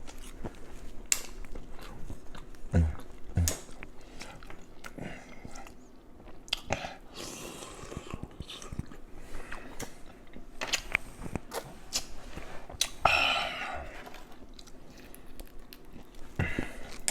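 A person eating mussels in butter sauce close to the microphone: wet chewing, biting and smacking with scattered clicks. There are two longer noisy stretches, about seven and thirteen seconds in.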